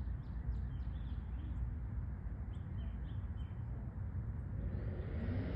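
Outdoor ambience of birds chirping, a series of short, quick falling calls that thin out after the first couple of seconds, over a steady low rumble.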